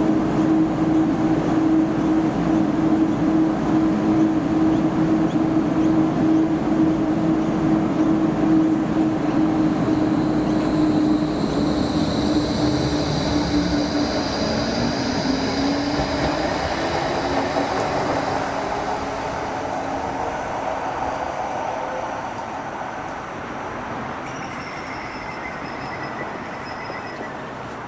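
Electric tram running on the light-rail line, a steady motor whine and rumble with high wheel squeals. The whine glides in pitch and the sound slowly fades in the second half as the tram slows.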